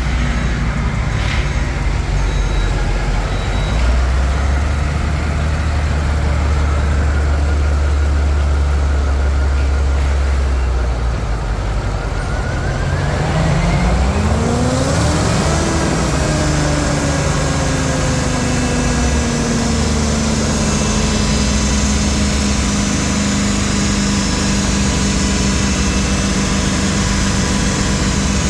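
GM 8.1-litre gasoline V8 engine running at a steady idle. About 13 seconds in it is revved up, and over the next ten seconds or so the revs ease slowly back down.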